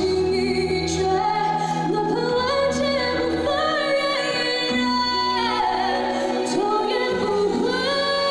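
A female vocalist sings a ballad live over instrumental accompaniment. She holds long notes, sliding between pitches, above low bass notes that change every second or two.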